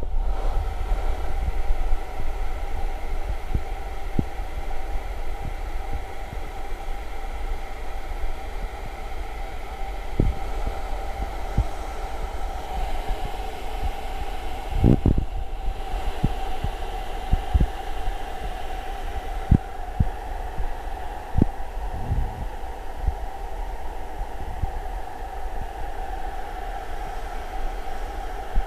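Hair dryer running on its high hot setting with a steady whine and airflow rumble. A few short low knocks come through.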